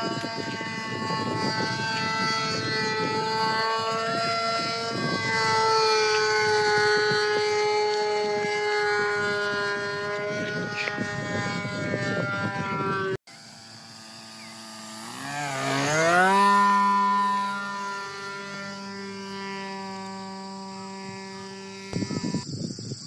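A 7.5cc IC engine on an RC model plane running at high throttle in flight, a steady high-pitched whine. In the second part its pitch dips and climbs back, loudest just after it climbs.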